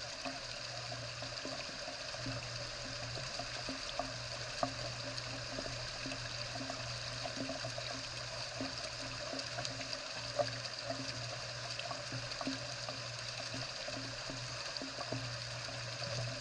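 Steady rain falling, with scattered sharp drips and ticks and a faint low pulse repeating about twice a second beneath it.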